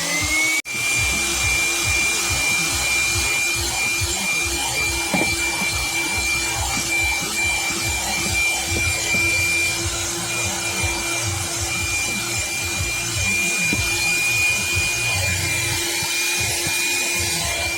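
Daewoo DAVC 150 handheld car vacuum cleaner switched on: its motor whine rises as it spins up, then runs steadily with a high-pitched whine over a rush of air. The owner finds it has no suction at all.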